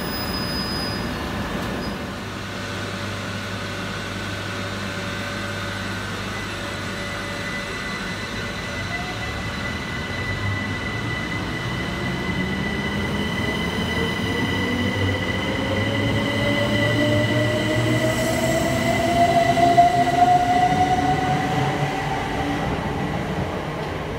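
Southern Class 377 Electrostar electric train running, with a steady high whine. From about ten seconds in, a second whine rises in pitch as the train gains speed, growing louder until near the end and then easing off.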